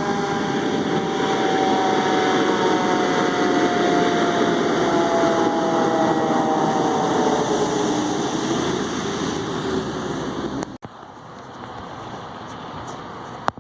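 Fire truck siren winding down, its tone falling slowly in pitch and fading over about eight seconds, over loud engine and road noise. The sound drops away abruptly about eleven seconds in, leaving quieter background noise, with a sharp click near the end.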